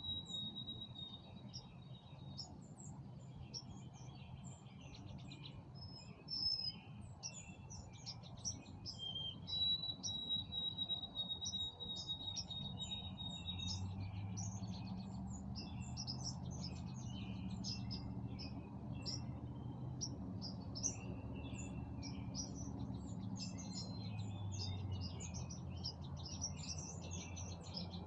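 Several songbirds chirping and singing in a spring dusk chorus, with a thin, steady high note held for about four seconds, twice. A low hum runs underneath, stronger in the second half.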